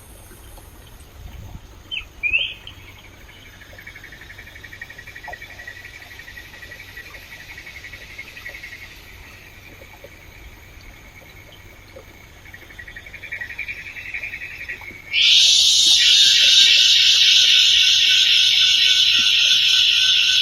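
A short rising bird call, then a pulsing insect or frog trill that fades and builds again. About 15 s in, a much louder, dense insect buzz suddenly starts up and keeps going.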